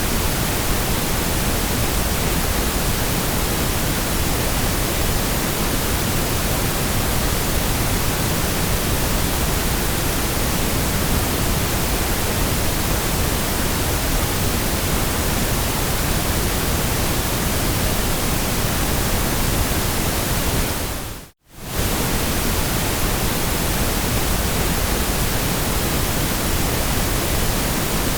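Steady white noise: an even, unvarying hiss across all pitches. It fades out to near silence for a moment about 21 seconds in and comes straight back, the seam of a repeating loop.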